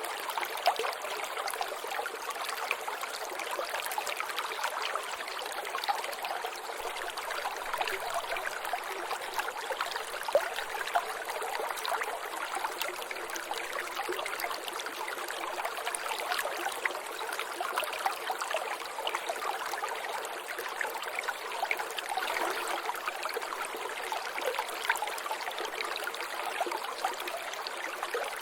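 Water trickling and dripping steadily, many small drops and splashes over a continuous running-water sound.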